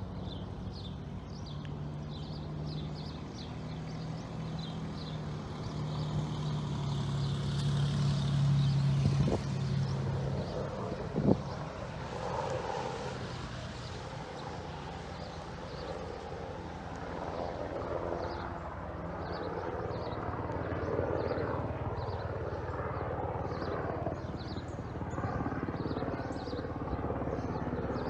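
Helicopter drone from overhead, swelling to its loudest about eight or nine seconds in, with birds chirping. Two sharp clicks come about nine and eleven seconds in.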